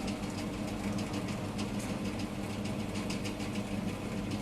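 Engine idling with a steady low hum, with light, irregular ticks over it that fit rain falling.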